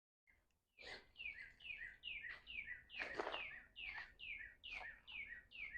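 A songbird singing a rapid run of downward-slurred whistled notes, about three a second, starting about a second in.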